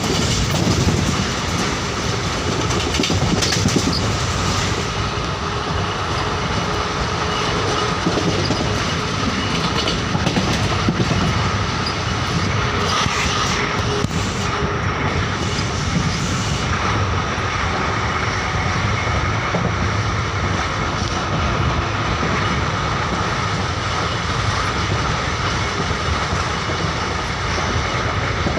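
Express passenger train running at speed: a steady rumble of wheels on rails, with occasional sharp knocks from rail joints.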